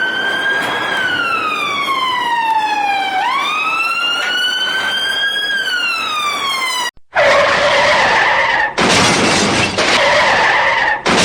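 Police siren wailing, its pitch slowly rising and falling. About seven seconds in it cuts off and a louder, harsher noise with steady tones takes over, broken by two short gaps.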